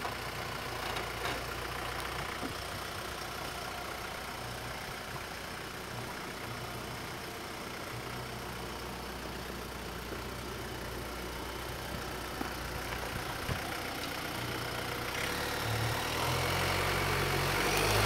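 Off-road vehicle's engine running at low revs, growing louder over the last couple of seconds.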